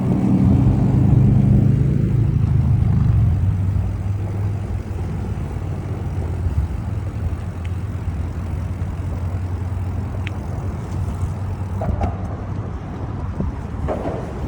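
A motor vehicle's engine hum, loudest as it passes close in the first few seconds and then running on steadily and lower, over wind rumbling on the microphone.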